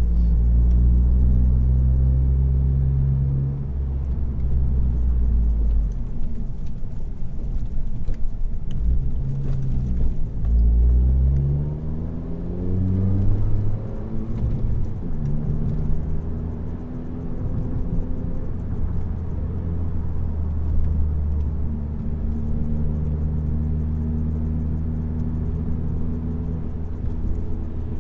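Exhaust drone inside the cabin of a 2018 Honda Accord, a turbocharged four-cylinder running with its resonator and muffler deleted, while driving. About ten seconds in, the engine note climbs in pitch as the car accelerates, then settles back into a steady cruising drone.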